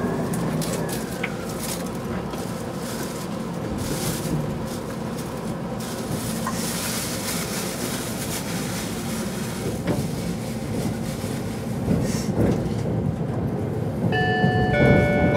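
E257-series electric train pulling out of a station, heard from inside the passenger car: a steady rumble of motors and wheels as it gathers speed. Near the end a multi-note onboard chime starts, the signal that comes before an automated announcement.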